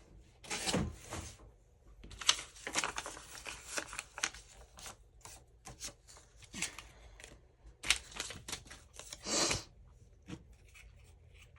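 Sheets of paper being handled and sorted: irregular rustles and swishes with scattered sharp taps and clicks, the longest swish near the end.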